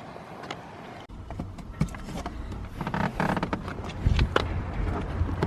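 A car engine idling with a steady low rumble, with scattered clicks and knocks over it and a couple of heavier thuds near the end. The rumble comes in suddenly about a second in.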